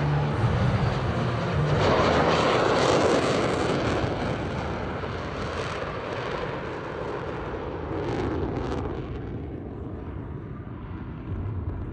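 Jet roar of F/A-18 Hornet fighters flying past. It swells to a peak a couple of seconds in, swells again briefly about eight seconds in, then fades away.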